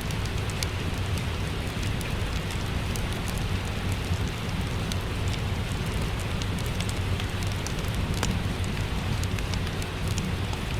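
Steady rain with a crackling wood fire: an even hiss of rain over a low rumble, with scattered sharp pops and crackles from the fire.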